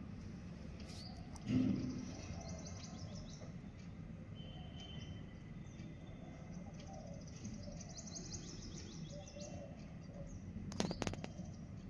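Small birds chirping faintly in many short, rapid, high notes over a steady background hiss. There is a brief thump about a second and a half in, and a few sharp clicks near the end.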